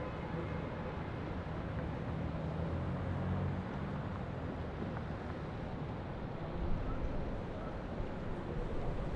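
Steady city traffic rumble, with a low engine drone that swells about two to four seconds in and a deeper rumble near the end.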